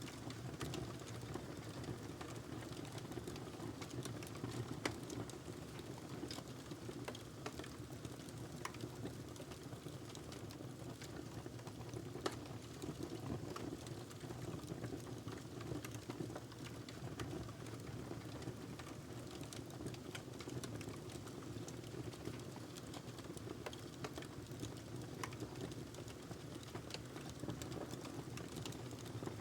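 Wood fire burning in a fireplace: a steady low rumble of flame with irregular crackles and pops throughout, the sharpest pops about five and twelve seconds in.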